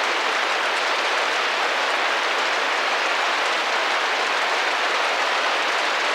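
Steady rain drumming against a window, a dense, even patter.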